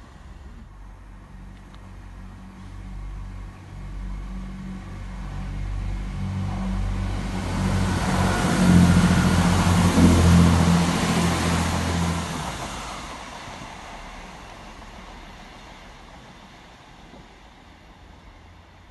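Class 165 diesel multiple unit passing close by, its diesel engines humming steadily and growing louder as it approaches, loudest about nine to ten seconds in with wheel and rail noise on top. The engine note drops away about twelve seconds in and the sound fades.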